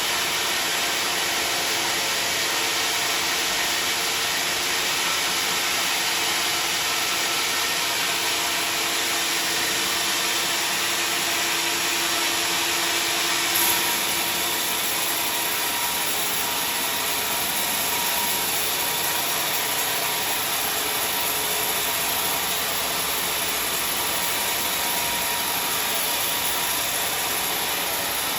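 Sawmill saw and its machinery running steadily with a broad, even hiss of noise. There is a faint hum that fades out about halfway through, and a single short knock at about the same time.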